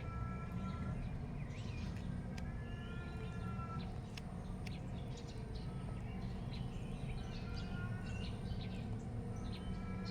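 Several birds chirping and calling in short, repeated whistled notes, over a steady low hum.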